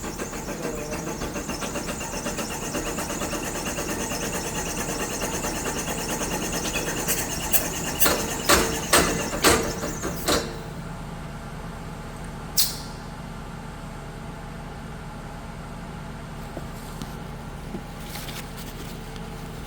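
Electric motor on a Delta VFD turning an engine over against compression, running with a fast even pulsing for about ten seconds with several loud knocks toward the end. It then stops abruptly, leaving a steady low electrical hum, and one sharp click follows a couple of seconds later. The abrupt stop is typical of the drive tripping on overvoltage under the engine's compression.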